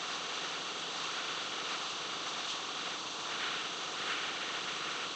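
Hot air rework station blowing a steady hiss of hot air, heating a chip to desolder it from the board.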